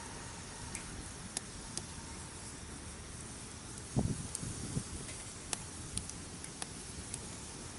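Wood campfire crackling, with sharp pops every second or so over a steady low hiss. A low thud comes about four seconds in.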